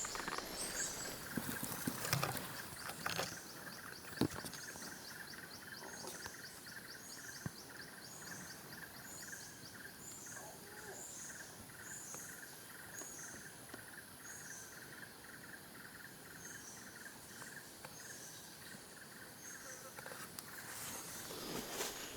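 Faint forest ambience: a short, high chirp repeats about twice a second over a steady, pulsing trill of small wild creatures. There are a few soft knocks in the first few seconds.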